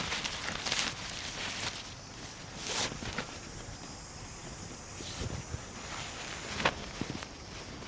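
Irregular rustling and crunching steps on the ground, with a sharp click about two-thirds of the way through.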